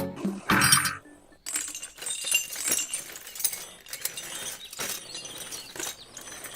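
Light clinking and tapping of small hard objects, a run of irregular sharp clicks. There is a brief gap about a second in.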